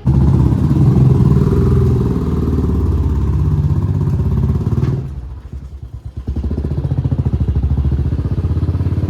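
Motorcycle engine running with a fast, even chug of firing pulses. It drops off briefly about five seconds in, then picks up again.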